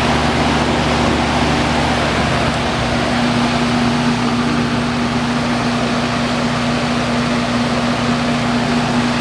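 Goodman heat pump outdoor unit running in heat mode: a steady rushing of air with a constant low hum underneath.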